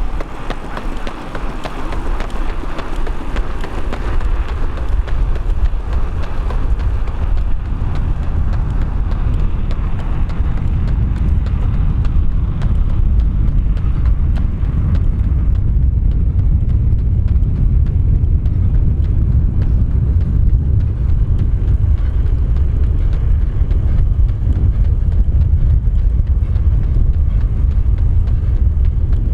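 Wind buffeting the microphone as a low, steady rumble that grows stronger after the first few seconds.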